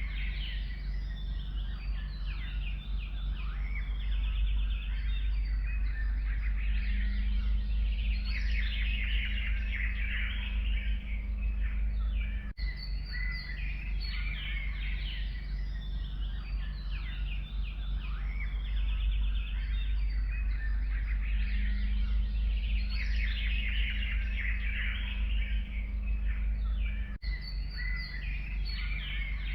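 Forest birdsong: several songbirds chirping and trilling together over a steady low rumble. It is a looped recording that repeats about every fifteen seconds, with a brief dropout at each seam.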